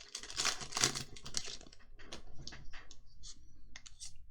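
Magic: The Gathering cards being handled and flicked through one by one. Papery swishes and slides come first, then a series of light clicks and taps as the cards are shifted in the hand.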